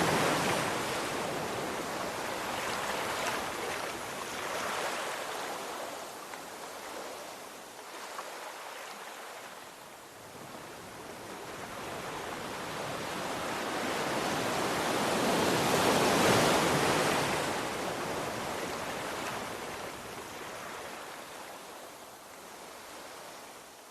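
Ocean waves washing in and drawing back. One wave is at its loudest as the stretch begins and fades away. Another swells to a peak about two-thirds of the way through, then recedes.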